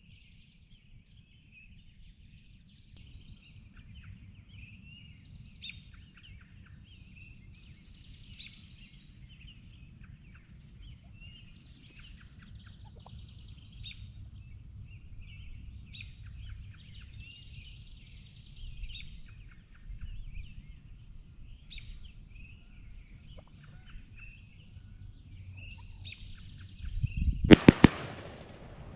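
Small songbirds singing in a busy dawn chorus over a low outdoor rumble. Near the end, several shotgun blasts go off in quick succession as the turkey hunters fire.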